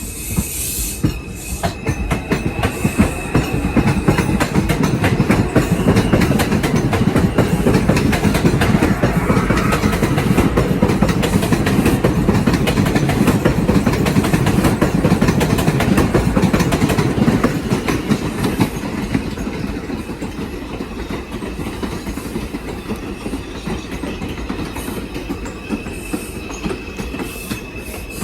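New York City subway 4 train pulling out and running past, its wheels clattering over the rail joints. The noise builds over the first few seconds and eases in the second half, with a thin high whine near the start and end.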